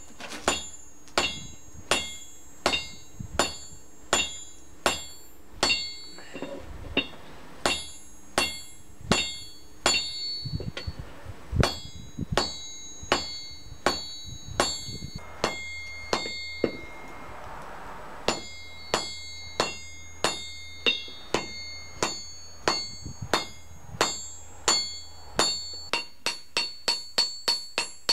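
Hammer blows on a steel towbar hook on an anvil, each strike ringing with a bright metallic tone. The blows come at a steady pace of about one and a half a second, with two short breaks, and quicken to about three a second near the end.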